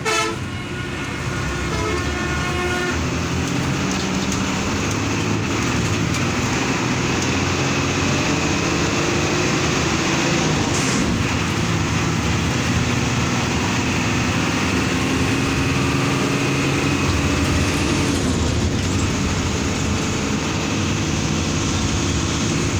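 Highway coach running at speed: a steady engine drone and road noise, the engine note slowly rising and falling, with a multi-tone horn sounding for the first few seconds.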